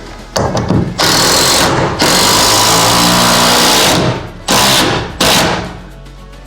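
Handheld power drill running under load in wood: one long run of about three seconds with a brief dip partway, then two short bursts.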